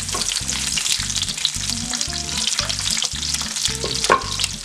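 Diced onion and garlic sizzling and crackling in hot oil in a frying pan as a wooden spoon stirs them.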